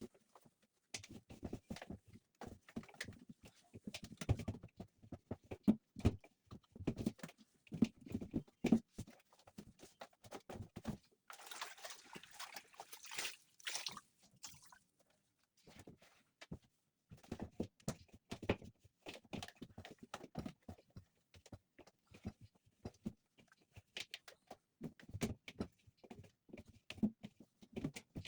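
Irregular knocks, clicks and handling noises, with a spell of hissing about twelve seconds in that lasts some three seconds.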